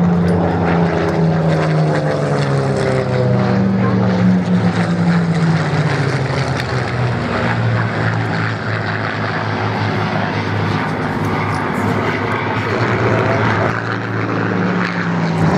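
Supermarine Spitfires flying past, their V12 piston engines and propellers running steadily. The engine note drops in pitch as they pass, and a higher note returns near the end as more aircraft come in.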